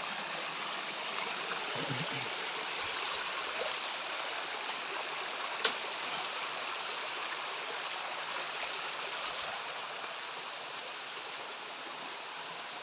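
Steady rush of a jungle stream's flowing water, with a single sharp click about halfway through.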